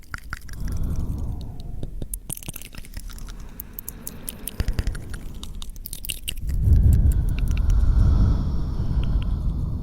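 Close-miked ASMR mouth sounds: quick wet clicks and smacks. Two stretches of low rustling noise run under them, one about half a second in and a louder one from about six and a half seconds.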